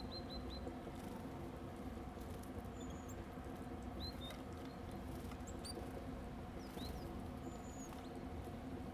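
Small birds giving short high chirps: a quick run of four notes at the start, then scattered single calls and a few thinner, higher notes, over a steady low background.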